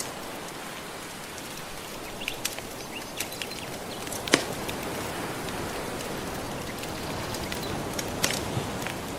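Wood fire crackling, with scattered sharp pops over a steady wash of gentle ocean waves; the loudest pop comes a little over four seconds in.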